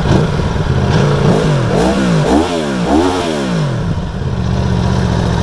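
2019 Aprilia Tuono V4 Factory's V4 engine idling in neutral, blipped four times in quick succession before settling back to idle. It runs on the stock exhaust, which the owner finds needs an upgrade.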